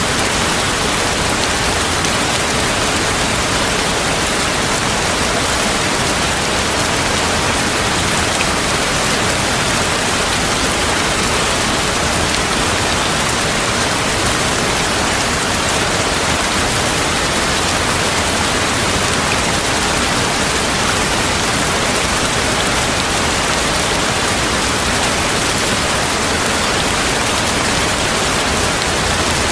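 Steady heavy rain falling, an even hiss without thunder or changes in level.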